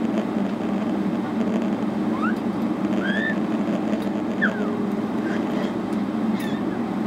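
Steady cabin drone of a Boeing 777-300ER on the ground, its GE90 engines and cabin air running without any rise in power. A few brief high squeaks rise and fall over it.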